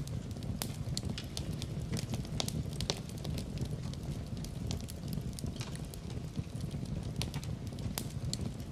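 Fire in a fireplace crackling, with many small, irregular pops and snaps over a steady low rumble.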